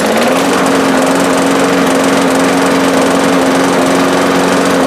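Tecumseh engine on a Craftsman push lawn mower running steadily just after starting. Its pitch rises during the first half second, then holds level. The engine now fires because the no-start fault was only a dirty spark plug.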